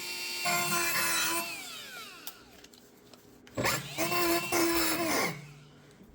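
Small handheld power tool running in two short bursts. Each burst ends with the motor winding down in a falling whine after it is switched off: once about a second and a half in, and again about five seconds in.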